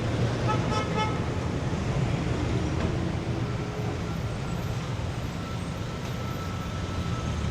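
City street traffic: vehicle engines running steadily, with short horn beeps in the first second.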